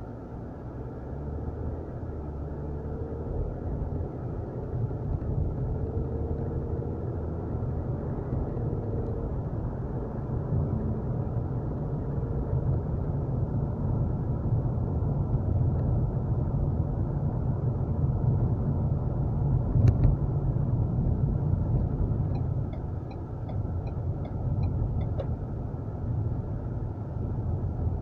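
Car cabin noise while driving: a steady low engine and road rumble that grows a little louder, with one short knock about two-thirds of the way in and faint regular ticking for a few seconds near the end.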